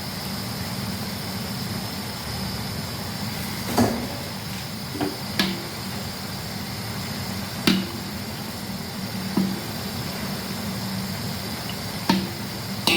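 Puff puff dough balls frying in hot oil with a steady sizzle, while a metal utensil knocks against the pan about seven times, each a short clink with a brief ring, as the balls are turned and lifted out.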